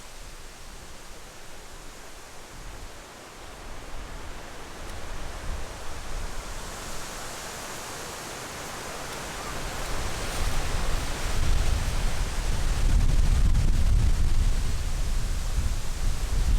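Strong wind rushing and buffeting the microphone. A hissing rush builds from about seven seconds in, and heavy low rumbling gusts join from about ten seconds in, growing louder toward the end.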